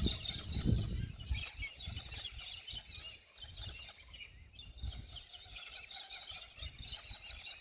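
A flock of galahs chattering with many overlapping short, shrill calls, with low rumbles loudest in the first second.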